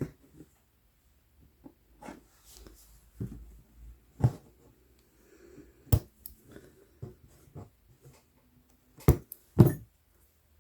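Cross-stitching handling sounds: a size 24 needle pushed and pulled through 11-count Aida fabric and floss drawn through it, soft rustles broken by a few sharp clicks, two of them close together near the end.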